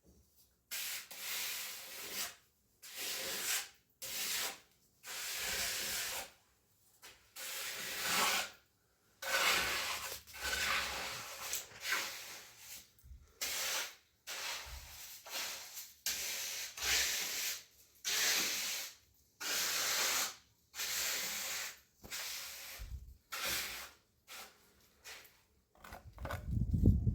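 Repeated rough scraping strokes, about twenty of them, each half a second to a second and a half long, with the sound dropping out completely between strokes.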